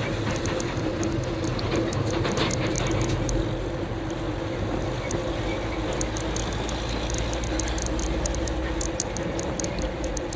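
Vehicle running: a steady low rumble and engine hum, with a continual light rattle of clicks.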